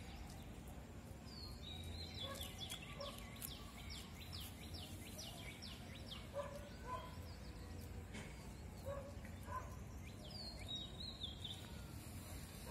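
Small birds calling in the trees: a long run of quick, high, downward-sliding chirps in the first half and a shorter run near the end, with scattered lower short notes, over a steady low background hum.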